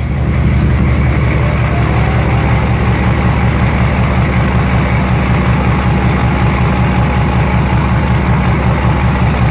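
6.5L turbo diesel V8 truck engine idling steadily just after starting, with an even low pulsing beat.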